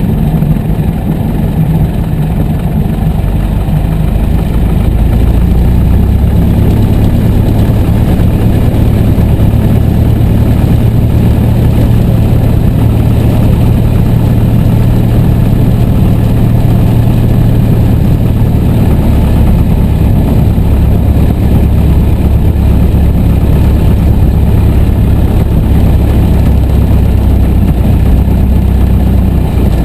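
Piper J-3 Cub's Continental A-65 four-cylinder air-cooled engine running at low power. Its note changes about five seconds in and then stays steady.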